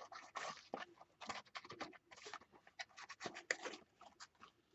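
Faint scratchy rubbing on a paper page in quick, irregular strokes as blue water-soluble medium is worked around it.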